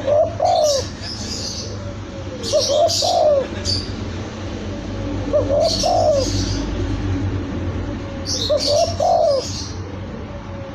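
Spotted dove cooing: a short multi-note coo phrase repeated about every three seconds, four times, with high chirps of small birds sounding alongside each phrase.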